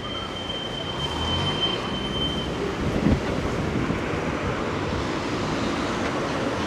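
Rumbling noise of passing heavy traffic or rolling stock, with a thin, steady, high squeal that stops about two and a half seconds in and a single dull thump about three seconds in.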